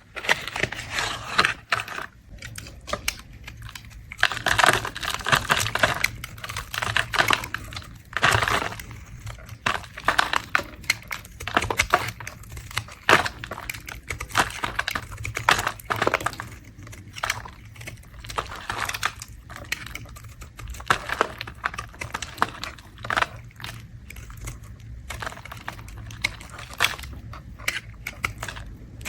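A blade scraping shavings off a bar of soap in repeated short scraping strokes, irregular in timing, with brief pauses between runs of strokes.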